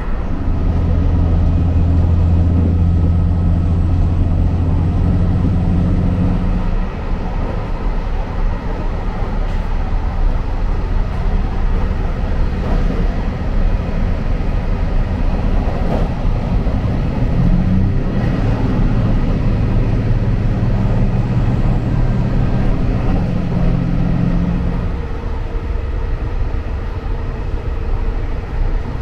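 Cabin of a moving JR Hokkaido 261 series diesel express train: a steady rumble of running on the rails, with the underfloor diesel engine droning as a low hum for about the first seven seconds and again for several seconds past the middle.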